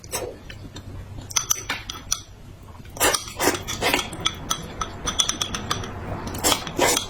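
Eating utensils clinking and tapping against dishes in clusters of quick clicks, with a few longer, noisier scrapes or slurps between them.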